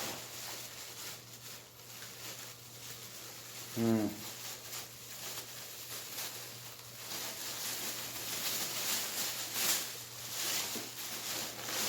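Plastic grocery bags and food packets rustling and crinkling as they are handled, with a brief falling voiced sound about four seconds in and a steady low hum underneath.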